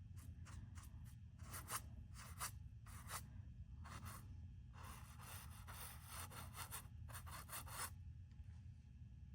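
Faint, irregular scratchy strokes of a brush or painting tool rubbing on the painting surface, several a second, stopping about a second before the end.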